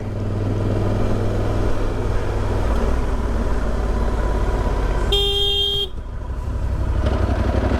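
Motorcycle engine running steadily under way, with a single horn honk of just under a second about five seconds in.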